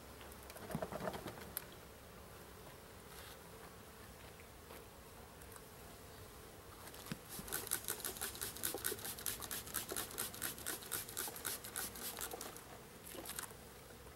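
Honey bees buzzing around an opened bee package, with a fast run of scraping or rattling strokes, about five a second, for several seconds in the second half.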